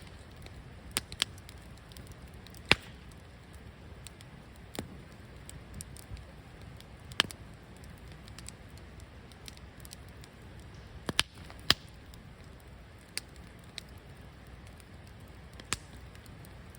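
Wood fire burning in a fire pit: a steady low rumble of flame with sharp, irregular crackles and pops, the loudest about three seconds in and twice near twelve seconds.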